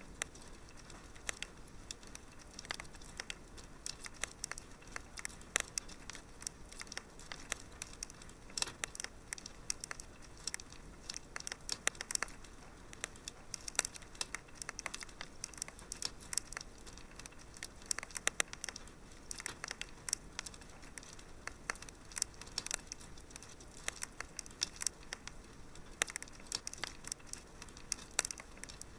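Wood fire crackling and popping: a constant scatter of sharp irregular snaps over a low, steady hiss.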